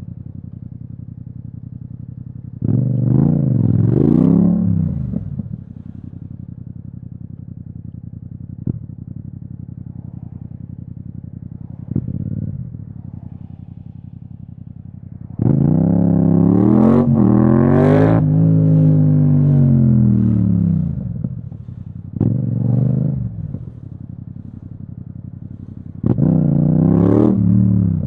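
Yamaha MT-07's parallel-twin engine through an Akrapovič exhaust, running low and steady between several bursts of throttle. The longest burst, about two-thirds through, climbs in pitch for a few seconds and then falls away.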